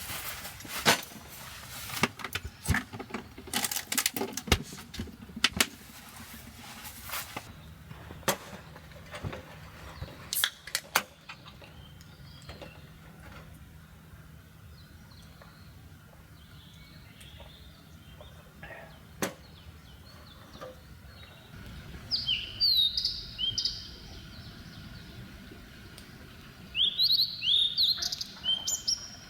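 A run of sharp clicks and knocks for the first ten seconds or so, then quiet with a single click. Near the end a bird calls in two bursts of quick, high, falling chirps a few seconds apart.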